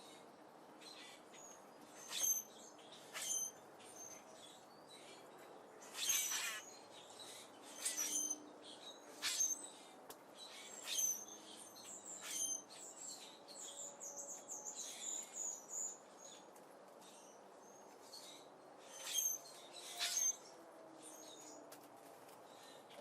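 Small birds chirping at a seed feeder: short, high-pitched chirps come at irregular intervals, a few of them sharp and loud, with a quick run of rapid twittering notes around the middle.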